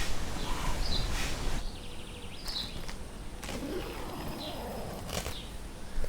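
Outdoor ambience: a bird giving short high chirps every second or two over a steady hiss, with a few sharp clicks near the end.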